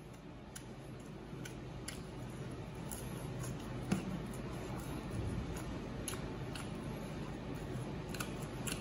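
Close-up chewing of crisp fried insects with the mouth closed: soft wet squelching with scattered small crunchy clicks at uneven intervals.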